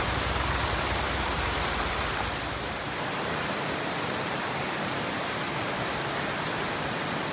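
Waterfall rushing: a steady, even wash of falling water. About two and a half seconds in, the deep rumble underneath drops away.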